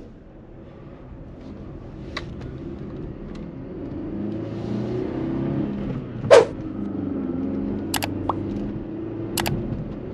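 Mercedes-Benz E 200 W211's four-cylinder petrol engine under acceleration with road noise, growing louder over the first five seconds and then holding steady. A single sharp knock comes about six seconds in, and two short clicks follow later.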